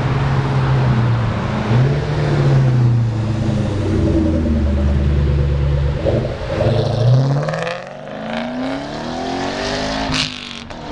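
Ford Mustangs driving past in a group, engines running steadily at first, then revving and accelerating with rising pitch in the second half; a short sharp crack near the end.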